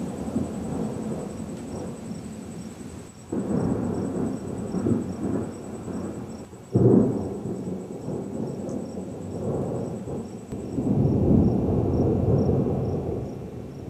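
Monsoon thunder rumbling low and deep. A sudden loud clap comes about three seconds in, the sharpest and loudest crack near seven seconds, and another long swell of rumbling after eleven seconds.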